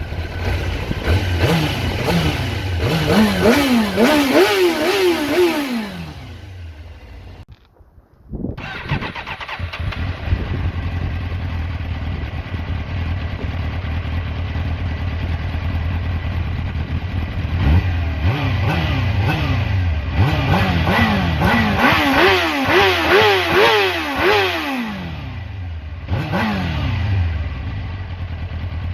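2002 Suzuki GSX-R 600's inline four-cylinder engine on its stock exhaust, blipped repeatedly: quick rises and falls in revs from idle, in two rounds with a steady idle between. About eight seconds in the sound drops almost to nothing for a moment, then the engine is running at idle again.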